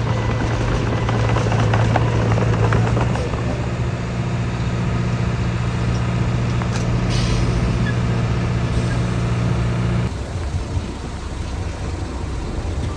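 Heavy diesel engine of construction machinery running steadily under load, with clanking in the first few seconds. The engine note drops off abruptly about ten seconds in, leaving a lower rumble.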